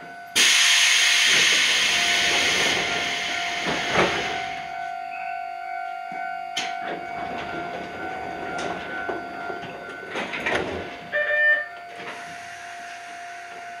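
Iyotetsu 3000 series electric train heard from the driver's cab. A sudden loud rush of hissing air starts about half a second in and lasts about three seconds. Quieter running sound follows, with a steady hum, a few sharp knocks and a short beep near the end.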